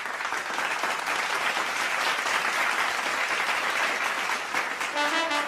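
Audience applauding steadily, with music starting faintly near the end.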